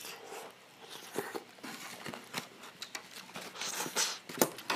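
Close-miked eating sounds: a person chewing food, with many short irregular mouth clicks and smacks and a few brief soft hisses.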